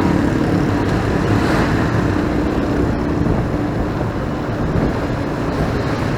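Steady road noise of a motorcycle ride in city traffic: the riding motorcycle's engine and passing vehicles blended into an even rumble and hiss.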